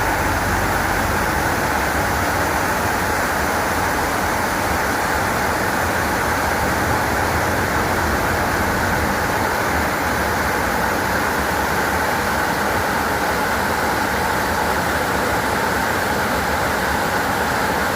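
Waterfall of white water, a loud steady roar.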